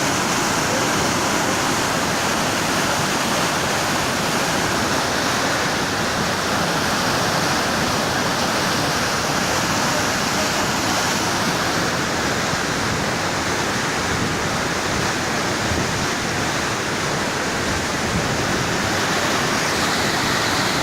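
Heavy floodwater rushing, a loud steady roar without a break.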